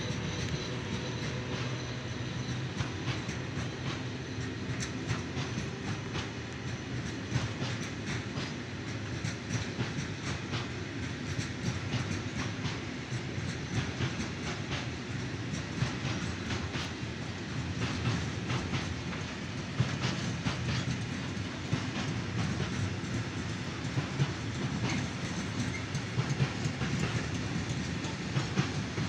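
Freight train of covered hopper wagons rolling past, the wheels clicking steadily over the rail joints in a continuous clickety-clack.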